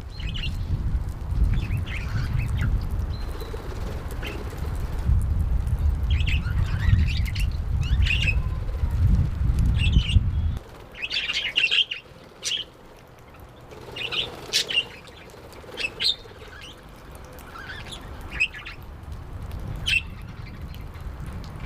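Pet parrots chirping in short, scattered high calls. A loud low rumble runs underneath for the first ten seconds or so, then cuts off suddenly.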